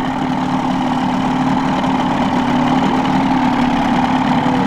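Outboard boat motor idling steadily at trolling speed, a constant even hum.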